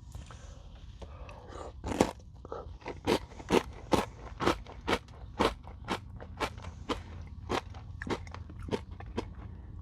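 Close-up crunching of a hard Nature Valley granola bar being chewed: a crisp bite about two seconds in, then steady crunching chews about two a second.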